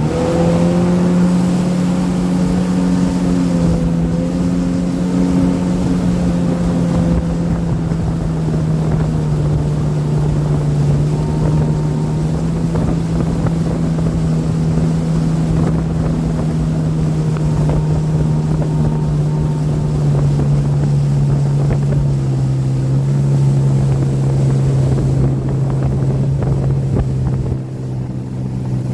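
Motorboat engine running steadily at speed, a constant drone that settles slightly lower in pitch in the first few seconds, with wind buffeting the microphone. The drone briefly dips near the end.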